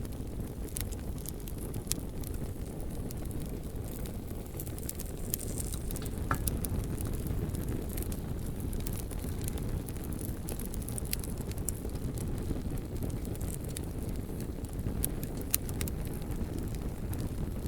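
Bonfire burning: a steady low rumble of flames with scattered sharp crackles and pops from the burning logs.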